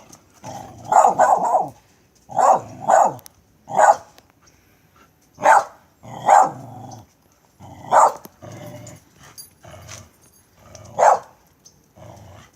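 A dog barking repeatedly, about ten short barks at uneven intervals, quickly one after another at first and then a second or more apart.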